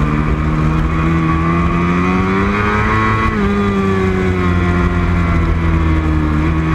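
Racing motorcycle engine running hard, its pitch climbing for about three seconds, then dropping sharply and rising again near the end.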